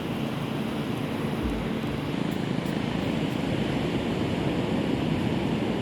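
Sea waves breaking and washing on the shore, a steady rush of surf.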